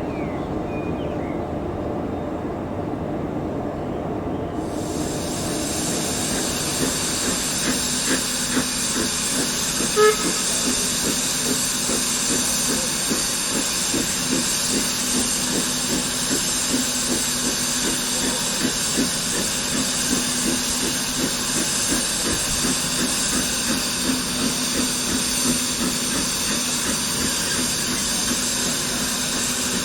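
Steam locomotive with a loud steady hiss of escaping steam that starts suddenly about four seconds in, over a regular beat of exhaust chuffs. A short sharp note sounds about ten seconds in.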